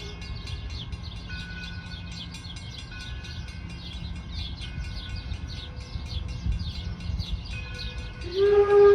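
4-4-0 steam locomotive running with a low rumble under steady chirping; its whistle cuts off at the start and sounds again loud and steady a little over eight seconds in.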